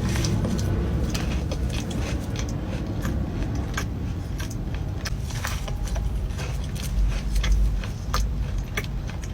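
Close-miked eating of a cookie: chewing, with many small crisp clicks and crackles, over a steady low rumble.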